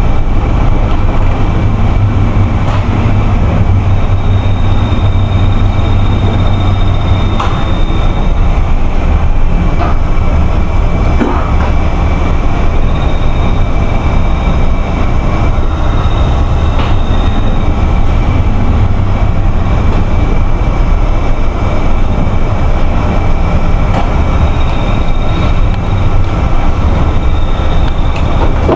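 Strong wind buffeting the microphone: a loud, steady low rumble. Two high thin whining tones come and go on top of it.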